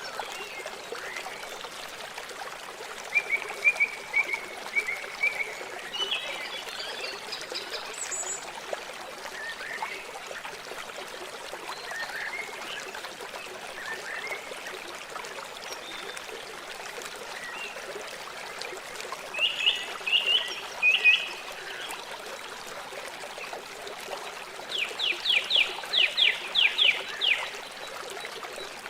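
River water flowing steadily, with bird calls over it: a short chirping series early, a few calls about two-thirds of the way in, and near the end a rapid run of about ten quick notes, each falling in pitch.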